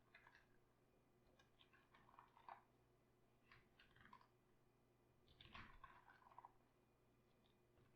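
Cabbage being worked for sauerkraut: faint crunching in five or so short, irregular bursts.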